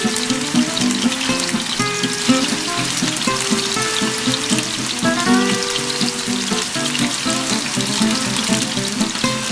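Chicken mince kebabs sizzling and crackling as they shallow-fry in hot oil in a frying pan, with background music of steady held notes underneath.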